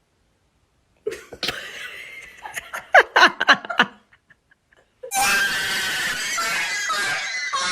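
A person laughing in short bursts for about three seconds, then a loud, continuous sound of a different kind from about five seconds in.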